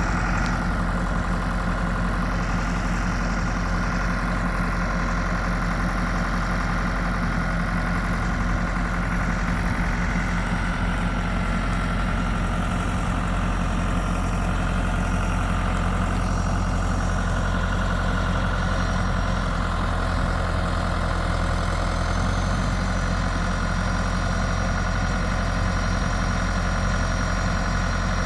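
Tractor engine running steadily at a constant speed, an even drone with no revving.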